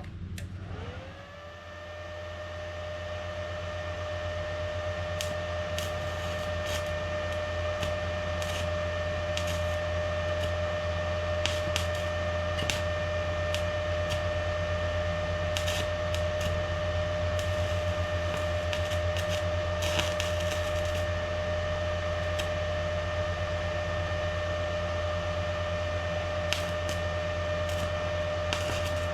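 An electric motor spins up about half a second in, its whine rising quickly in pitch, then runs at a constant speed with a steady whine over a low hum, with scattered light clicks.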